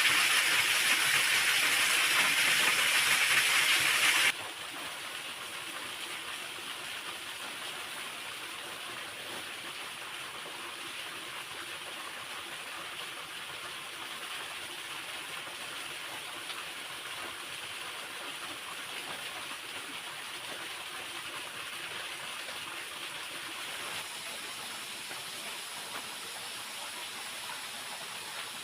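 Steady rushing of a waterfall. It is loud for the first four seconds, then drops suddenly to a quieter, even rush.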